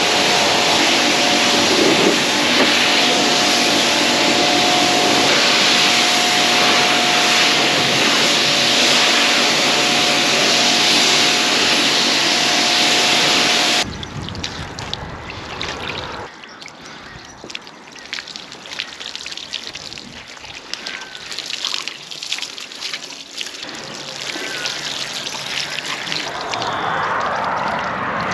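Pressure washer spraying water steadily with a constant hum for about fourteen seconds, then stopping abruptly. After that, water trickles and drips with light crackling, building up again near the end.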